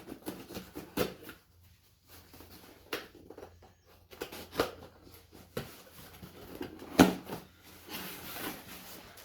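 Packages and parts being handled and unpacked: scattered knocks, clicks and rustling, with one sharper knock about seven seconds in.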